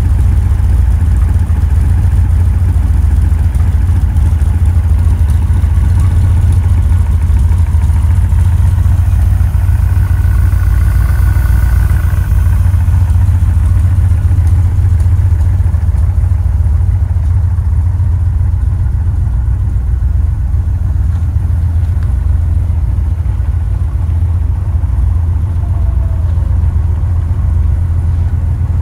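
V8 engine of a V8-swapped Porsche 912 idling steadily, a low, even exhaust note with no revving.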